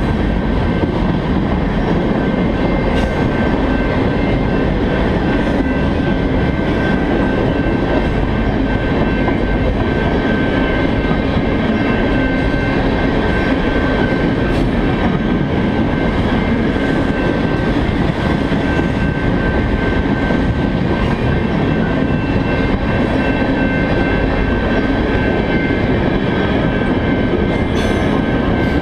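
Freight train of loaded tank cars rolling past: a steady loud rumble of steel wheels on rail, with a thin high-pitched wheel squeal held throughout and a few faint clicks.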